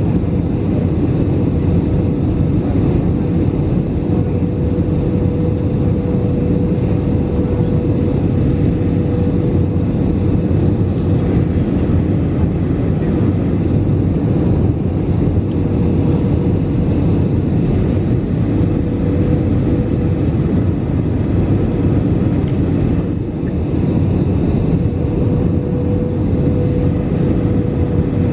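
Airbus A319 cabin noise in flight: a loud, steady roar of the jet engines and rushing air, with a faint steady hum held just under 500 Hz.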